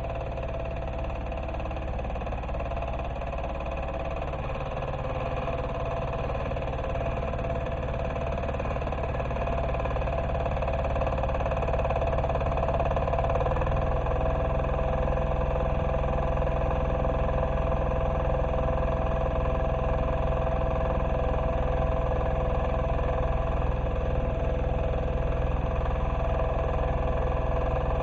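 Diesel engine of an MB-2 walk-behind tractor running steadily while ploughing. It grows a little louder over the first dozen seconds, then holds even.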